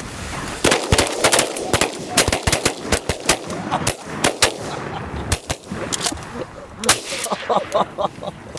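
Volley of shotgun fire from several duck hunters shooting at once at decoying ducks: about twenty sharp, overlapping shots in quick succession. They start under a second in and end about seven seconds in.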